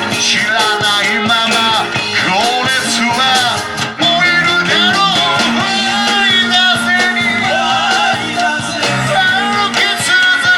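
Live rock and roll band playing, with electric guitar, bass and drums, and a lead singer over a steady beat.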